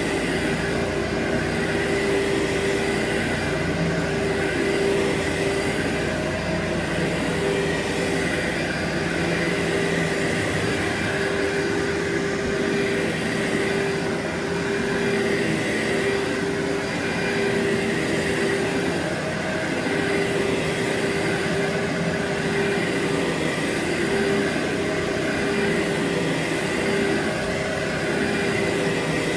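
Carpet-cleaning machine running steadily over carpet with a constant hum, on top of the steady hiss of a power washer running in the background.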